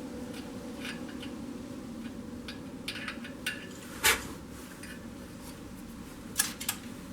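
Small metal hand tools clicking and clinking against metal, with the sharpest clink about four seconds in and two quick ones near the end, over a steady low hum.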